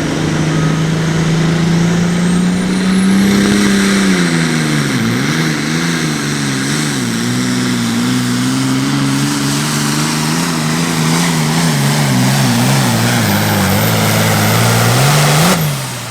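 Super farm pulling tractor's turbocharged diesel engine at full throttle under the load of a pulling sled, loud with heavy exhaust and turbo noise. After a few seconds its pitch wavers up and down and sags as the engine bogs under the load, then the sound cuts off abruptly near the end as the throttle comes off.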